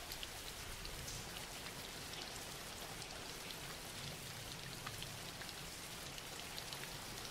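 Steady rain, an even, quiet patter of drops, used as a rain background track.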